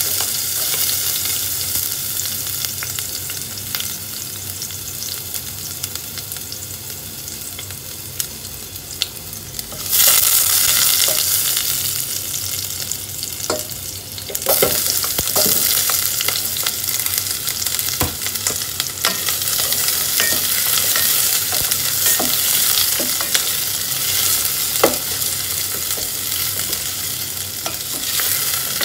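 Chopped garlic sizzling in hot oil in a stainless steel pot, stirred with a wooden spatula that now and then knocks against the pot. The sizzle gets louder about ten seconds in, and again about halfway through as chopped onion goes into the pot.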